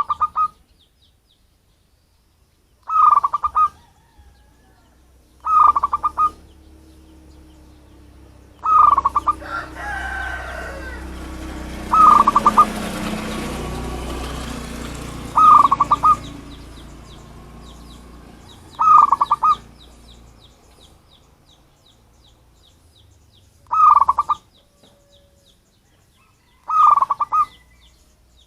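Zebra dove (perkutut) cooing: short runs of rapid staccato coos, repeated about every three seconds. A rushing background noise with other birds' chirps swells in the middle.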